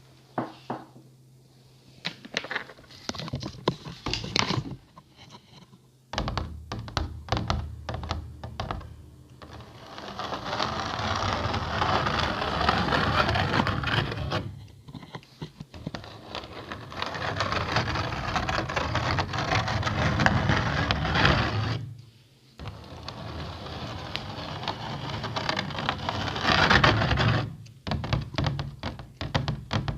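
ASMR tapping and scratching close to the microphone. Scattered taps come first, then long stretches of continuous scratching, and taps return near the end.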